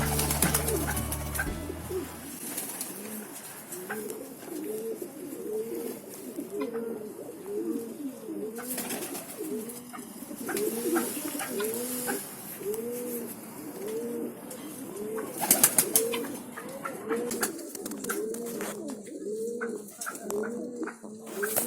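Domestic pigeons cooing over and over, the low arched coos overlapping at about one a second. Music fades out in the first couple of seconds, and a brief loud rush of noise comes about two-thirds through.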